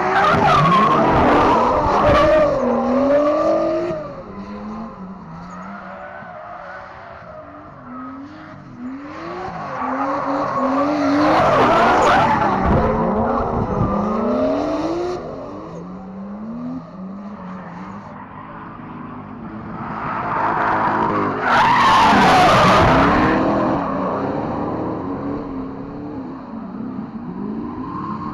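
Drift cars' engines revving hard and bouncing up and down through the revs, with tyres squealing and skidding. The noise swells loud three times: at the start, about halfway, and again about three-quarters through.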